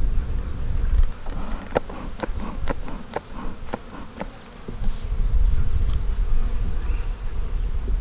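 Honeybees buzzing around an open hive, with wind rumbling on the microphone. About two seconds in there is a quick, uneven run of ten or so ticks lasting around two and a half seconds.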